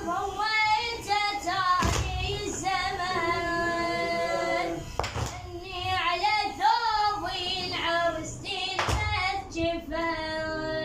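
Solo voice singing an Iraqi lament unaccompanied, in long wavering held notes and melismatic phrases. Three dull thumps cut in along the way.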